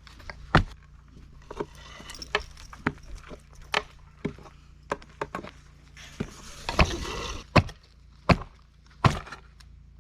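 Irregular knocks and bangs of rotted wooden panels and boards being pried out and handled, with a longer scraping, tearing sound around six to seven seconds in.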